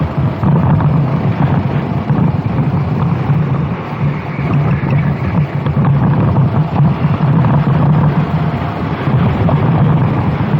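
Racing kart engine running at speed, heard onboard with heavy wind buffeting on the microphone.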